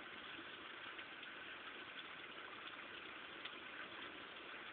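Rain falling steadily, a constant hiss with faint scattered drop ticks.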